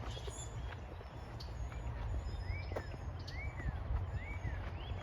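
A bird gives three short chirps that rise and fall, about two-thirds of a second apart, in the middle of the stretch. Under them runs a steady low rumble.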